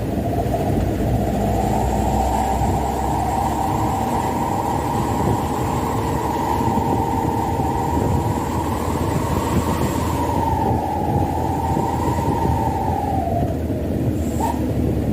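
Mitsubishi Canter dump truck driving unloaded: a steady engine and road rumble with a whine over it that climbs slightly, holds, then drops away near the end.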